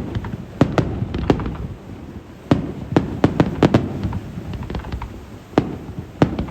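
Fireworks shells bursting in a rapid, irregular barrage, a dozen or more sharp bangs with rumbling echoes between them.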